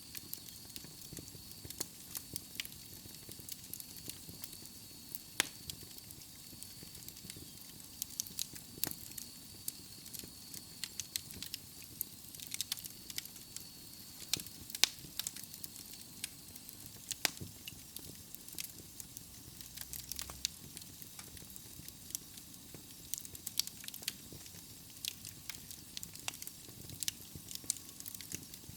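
Wood fire burning in a fireplace: logs crackling with frequent, irregular sharp pops over a soft steady hiss.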